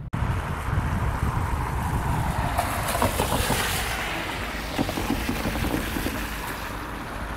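Diesel-hauled passenger train passing close by: a low rumble with clicks from the wheels on the rails, swelling to a peak about three seconds in and then easing off.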